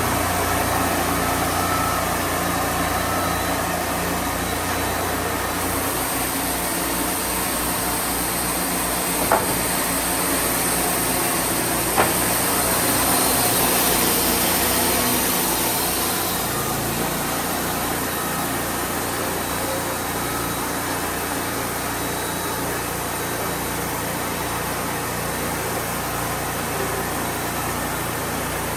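Portable band sawmill running steadily. Its sound changes between about six and sixteen seconds in, with more hiss and less low rumble, and there are two sharp clicks, about nine and twelve seconds in.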